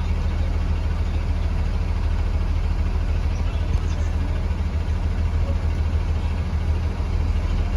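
2015 Blue Bird Vision school bus engine idling steadily, a low, even rumble.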